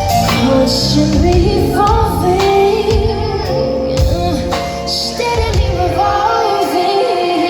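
Live concert music: a female singer sings a slow melody over a band, with sustained chords and a low drum beat about once a second.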